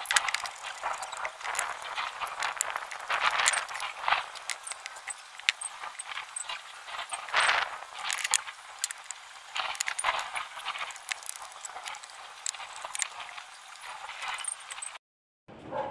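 Hand tools and metal parts clinking and rattling in irregular light clicks. This is typical of reassembly work on a car engine. It cuts off sharply about a second before the end.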